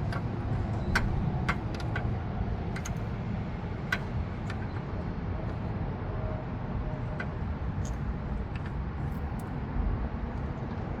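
Scattered sharp metal clicks of a socket wrench working on a radiator fan temperature sensor, over a steady low rumble.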